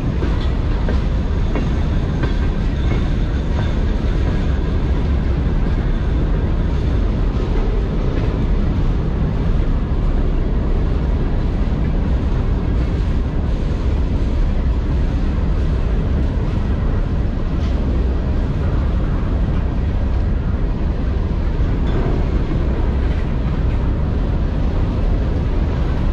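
Open steel hopper cars of a CSX rock train rolling past close by: a steady, loud rumble of steel wheels on rail with faint, repeated wheel clicks.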